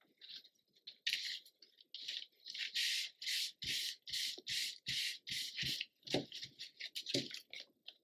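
Hands working paper and glue on a journal page: a regular run of short scratchy swishes, about two or three a second, with a few soft taps.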